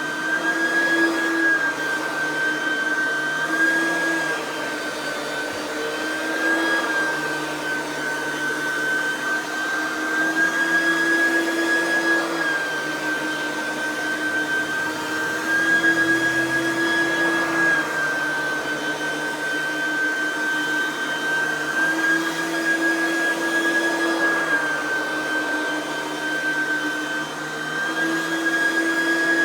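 Oreck XL9100c upright vacuum running: its small direct-air motor gives a loud, steady high-pitched whine. The pitch dips and rises slightly every couple of seconds as the load on the motor changes.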